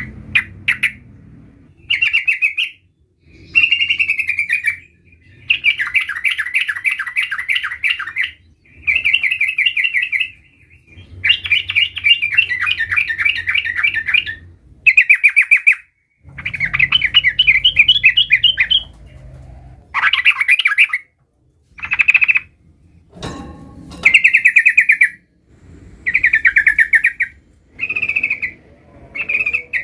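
Yellow-vented bulbul (trucukan) in full song: loud, rapid chattering trills delivered in repeated phrases, each from half a second to about three seconds long, with short pauses between them.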